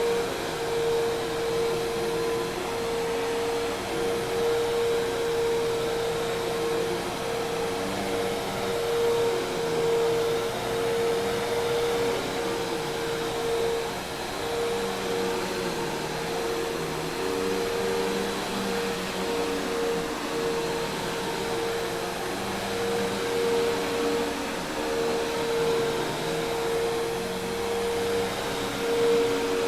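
Commercial Hoover Task Vac vacuum cleaner running steadily: an even rush of air with a strong, steady whine from the motor and no stop or restart.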